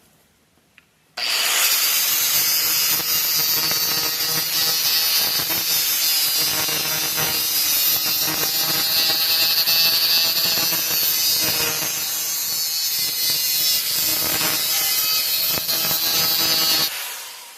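Electric grinder starts about a second in and grinds metal pipe with a steady whine, then cuts off near the end. It is taking the surface down to shiny bare metal.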